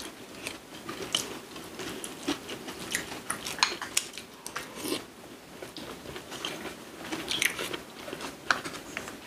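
People chewing and crunching food: rice and seasoned cockles wrapped in roasted seaweed, with irregular crisp crunches and bites.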